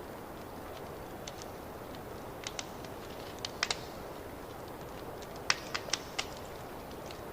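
Fireplace crackling: a steady low hiss of burning wood with irregular sharp pops and snaps, a cluster of louder ones in the second half.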